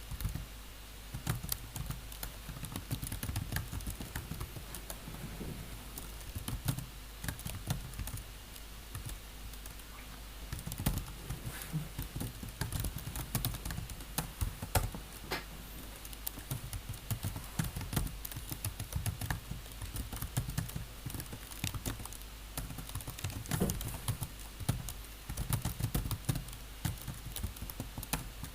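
Typing on a computer keyboard: irregular runs of key clicks with a couple of short lulls, over a steady low hum.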